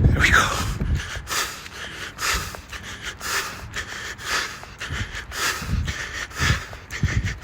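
A runner breathing hard, with a hissing breath about once a second and low rumbles near the start and near the end.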